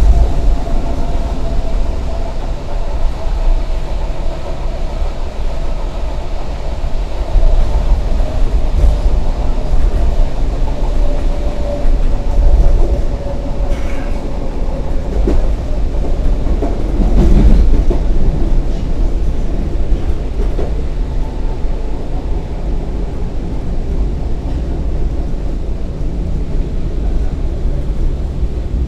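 Passenger train running: a steady low rumble with a motor whine that slowly falls in pitch through the first half, and a few knocks and rattles around the middle.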